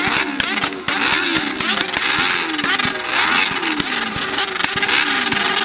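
Several motorcycle engines revving at once, their pitches rising and falling over one another.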